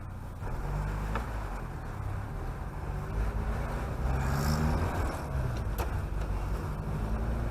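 Chevrolet Chevette's four-cylinder engine and road noise heard from inside the car while driving. The engine gets louder about half a second in, and its note rises and falls as the car accelerates.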